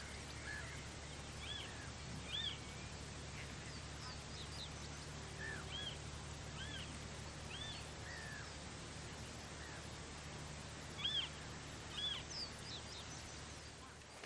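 Wild birds calling on the saltmarsh: about ten short rising-and-falling call notes, spaced irregularly, over a steady low hum.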